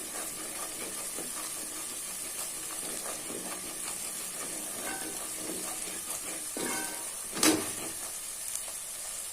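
Ground spice paste frying in oil and ghee in a wide pan, a steady sizzle as it is sautéed. One sharp knock stands out about seven and a half seconds in.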